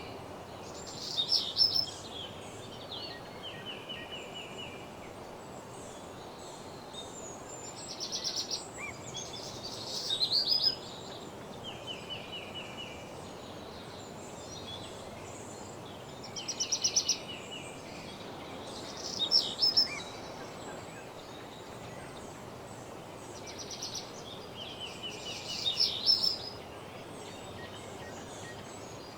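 Songbirds singing: short, even trills and brighter, louder song phrases come every few seconds, over a steady background hiss.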